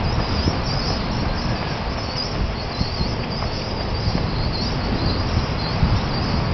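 A dense chorus of many small birds chirping and twittering without pause, over a steady low rumble.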